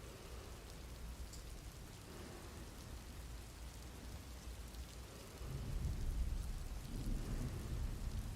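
Thunderstorm: steady rain falling, with a low roll of thunder rumbling in about two-thirds of the way through.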